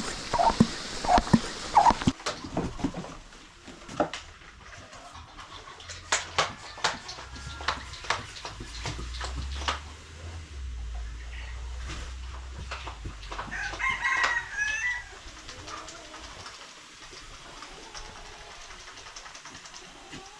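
Chickens clucking, with a rooster crowing once about fourteen seconds in. Sharp clicks and knocks come in the first few seconds and again a little later.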